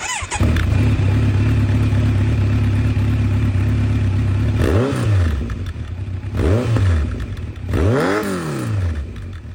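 Kawasaki Z900 inline-four motorcycle engine with a full Akrapovic exhaust and a modified dB killer baffle, starting up and idling steadily, then blipped three times. Each rev rises and falls back to idle; the third, near the end, is the highest.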